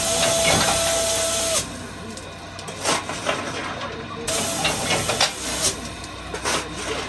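Steam locomotive on the Chichibu Railway venting steam with a loud hiss in two bursts: one for the first second and a half, and another from about four seconds in, with scattered clicks and knocks between them.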